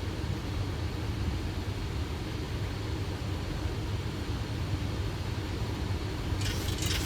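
Boeing 737 flight deck noise on final approach: a steady rush of airflow and engine noise with a low hum underneath. About six seconds in, a crackling hiss joins it.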